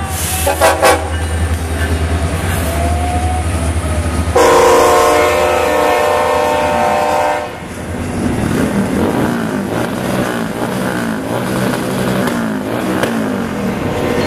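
Diesel freight locomotive passing close with its engine rumbling, two short horn blasts under a second in, then a long horn blast about four seconds in that lasts about three seconds. After the horn stops, the rumble gives way to the wheels of the container cars rolling and clattering over the rails.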